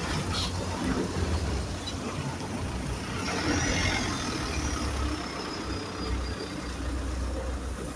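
Motor vehicle engine rumbling low. About three seconds in, a swell of passing noise rises, with a thin high whine that slowly falls and fades over the next few seconds.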